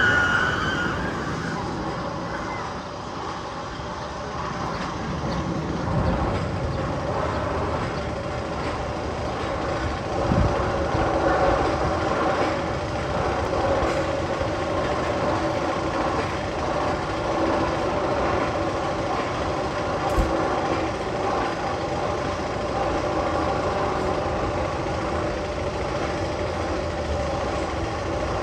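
Tunnel sound effect on the Magnum XL 200 coaster: a steady rumbling drone with several held tones, broken by brief knocks about ten and twenty seconds in.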